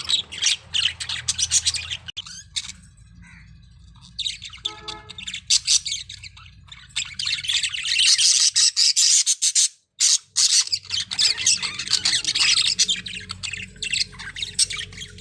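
Parrots chattering and squawking at each other in a squabble: dense, rapid runs of harsh chirps and squawks, with a lull of a couple of seconds near the start. The sound cuts out briefly about ten seconds in.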